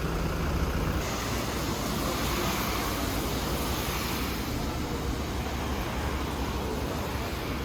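Steady running noise of a train, heard from inside the carriage: an even rumble with a wash of hiss.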